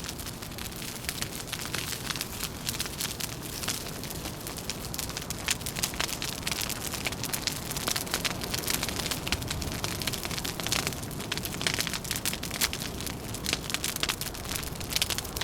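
Wood fire crackling, with dense, irregular pops and snaps over a steady hiss.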